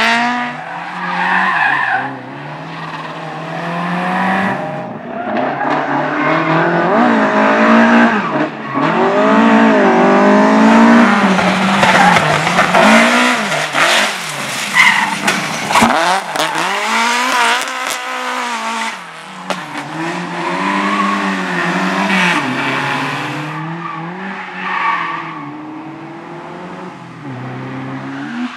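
A slalom race car's engine revving up and falling back repeatedly as it accelerates and slows through the course, with tyres squealing in the turns. It is loudest around the middle of the run.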